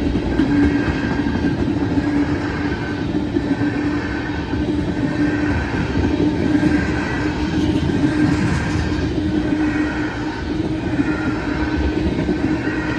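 Loaded oil tank cars of a freight train rolling steadily past, a continuous rumble of steel wheels on rail with a hum that comes and goes.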